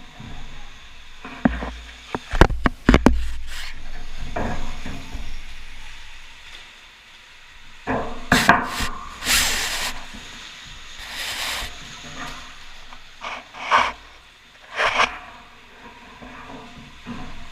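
Electric motocross bike ridden over an indoor dirt track, with no engine note: knocks, rattles and rubbing scrapes from the bike. A cluster of hard knocks and thuds comes about two to three seconds in, and bursts of hissing scrape come around eight to eleven seconds.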